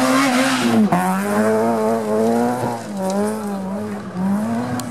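Rally car engine at high revs on a gravel road. Its pitch climbs, drops sharply about a second in as the driver lifts or shifts, then rises and falls repeatedly, with a rush of noise loudest during the first second.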